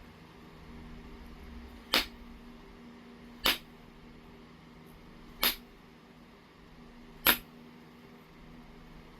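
Four sharp clicks of flakes being knapped off a piece of low-grade heat-treated Oregon jasper, spaced about one and a half to two seconds apart.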